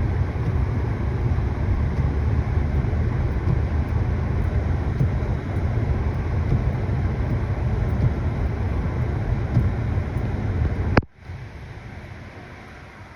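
Vehicle driving, a steady loud low rumble that cuts off abruptly about eleven seconds in, leaving a quiet hiss.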